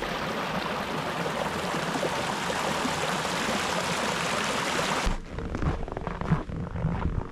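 Steady rushing noise like running water, which cuts off abruptly about five seconds in; after it come a quieter rumble of wind on the microphone and a few light knocks.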